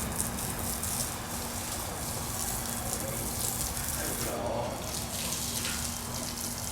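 Steady rush of running water, with a constant low hum under it.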